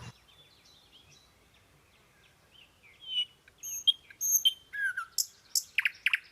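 Birds chirping: a string of short high chirps and whistles that begins a few seconds in and grows louder and denser near the end.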